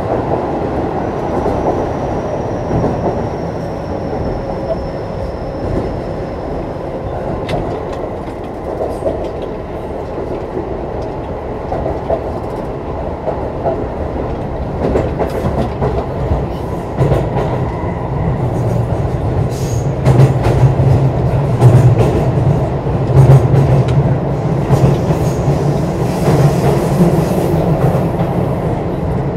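Running sound inside a Keio 9000-series motor car: a steady rumble of wheels and running gear, with clicks over the rail joints. The rumble grows louder about two-thirds of the way through.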